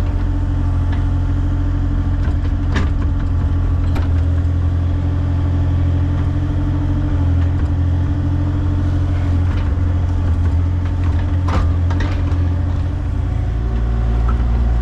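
Excavator's diesel engine running steadily during digging, with a few sharp knocks.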